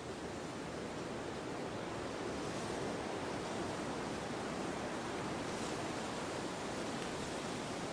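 Wind blowing steadily, an even rushing hiss with no gusts or other sounds standing out.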